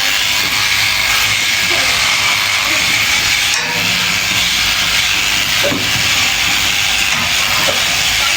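Electric sheep shears running through fleece: a steady, loud hiss.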